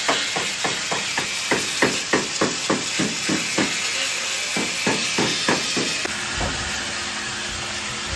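Rapid hammer blows on car body sheet metal, about three a second, stopping about five and a half seconds in, over a steady hiss that carries on after them.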